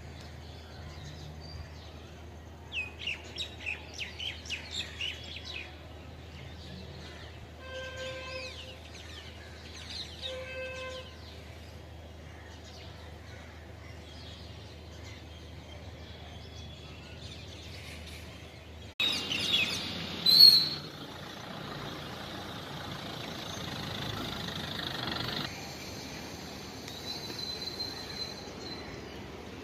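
Wild birds calling: a quick run of about nine chirps, then two short pitched calls a couple of seconds apart. About two-thirds through, the background changes abruptly and a loud call stands out briefly over steady hiss and faint high chirping.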